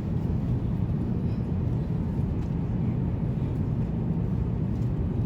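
Steady low roar inside a jet airliner's cabin in flight: engine and airflow noise.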